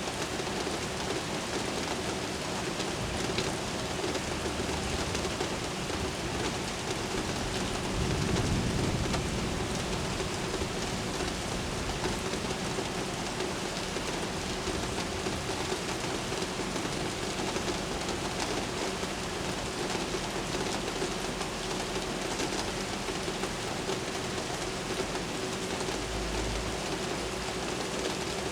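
Steady rain during a thunderstorm, with a brief low rumble of distant thunder about eight seconds in.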